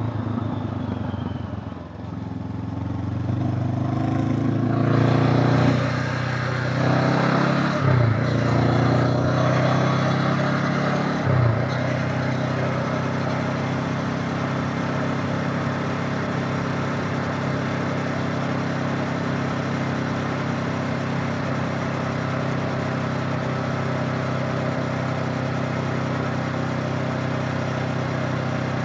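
Honda CB500X parallel-twin motorcycle engine pulling harder and rising in pitch, with two brief breaks in its note about eight and eleven seconds in, then running steadily at an even speed.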